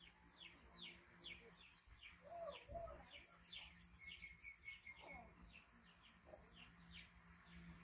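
Birds chirping: a steady run of short falling chirps, about three a second, with two rapid high trills in the middle.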